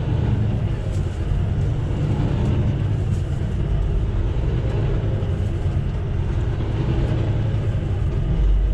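Semi truck driving: steady diesel engine drone and road noise heard from inside the cab.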